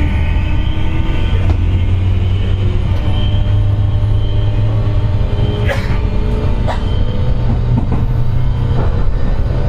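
Running sound inside a JR West 201 series electric train with armature-chopper control, recorded from the motor car. There is a steady low hum with a whine on top: the 'jet sound' of traction-motor bearings damaged by electrical pitting. A few sharp clicks come from the track along the way.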